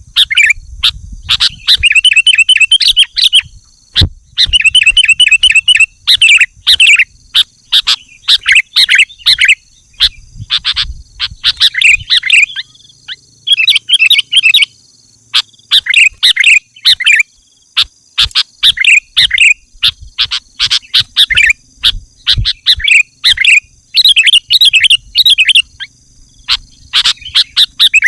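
Sooty-headed bulbul (kutilang) singing its challenge call: loud, chattering phrases repeated in quick succession, each about a second long, with short gaps between them. A faint steady high-pitched tone runs behind.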